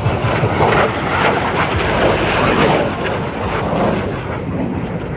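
Display aircraft engine noise as an airplane passes, a rushing sound that swells between about one and three seconds in and then eases off.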